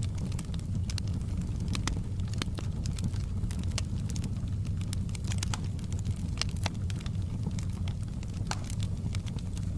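Campfire burning: a steady low rumble of flames with frequent irregular wood crackles and pops, several sharper snaps scattered through.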